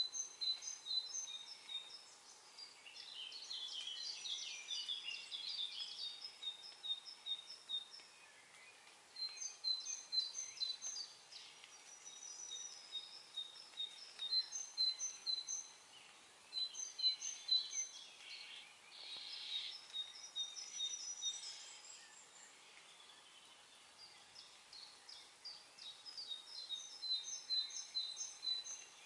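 Songbirds singing: repeated phrases of quick, high chirping notes with short pauses between them, the phrases sometimes overlapping, over a faint steady background hiss.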